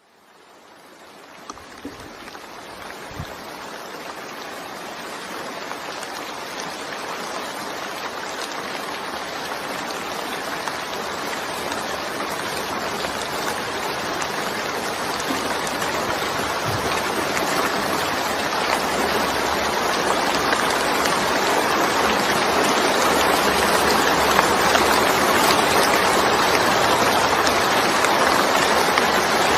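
Heavy rain falling in a dense, steady hiss of water. It fades in at the start and grows steadily louder, with a couple of faint knocks in the first few seconds.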